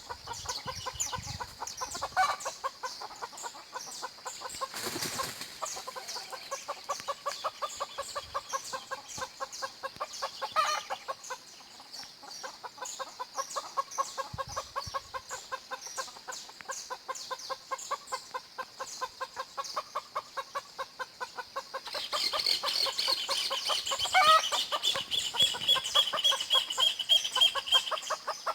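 Chickens clucking in a farmyard amid a dense, rapid chatter of small birds. From about three-quarters of the way in, a louder high trilled song of a canary joins.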